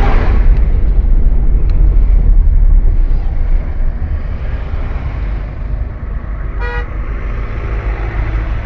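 Steady low rumble of a moving road vehicle, louder in the first few seconds, with a single short horn toot near the end.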